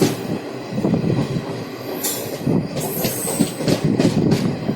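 Moving passenger train: a steady rattle and rumble with repeated knocks of the wheels over rail joints, and brief high squeals of wheel on rail about two and three seconds in.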